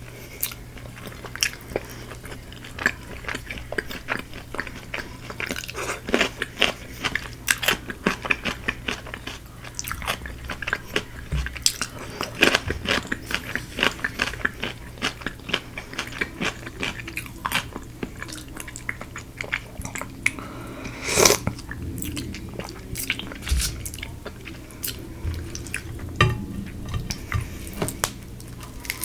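Close-up crunching and chewing of crispy Korean fried chicken: a dense run of sharp crackly bites and chews, with one louder crunch about three quarters of the way through.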